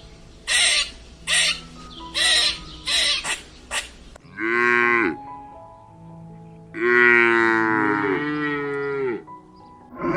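A cow mooing twice: a short moo about four seconds in, then a longer one lasting about two and a half seconds. A run of about six short, noisy sounds comes before the moos, and faint background music runs underneath.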